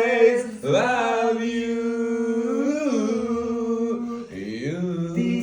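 A single voice singing, holding one long steady note for about three seconds, then sliding down to a lower pitch near the end.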